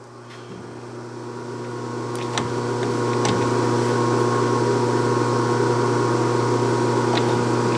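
Clausing Colchester 1340 metal lathe running under power feed while facing a steel part. Its steady hum builds over the first few seconds and then holds, with a few faint ticks.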